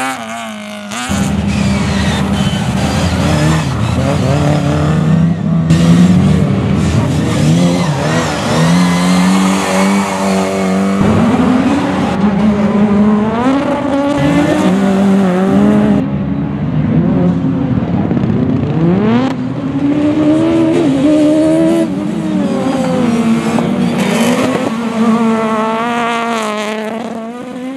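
Rally car engine revving hard, its pitch climbing and dropping again and again as it accelerates and shifts.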